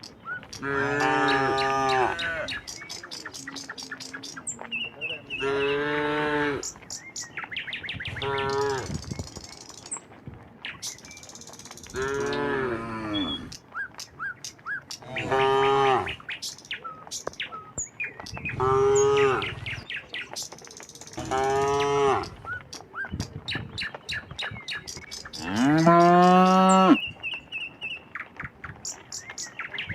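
Cattle mooing again and again, about eight long drawn-out moos a few seconds apart, from more than one animal. The loudest comes near the end.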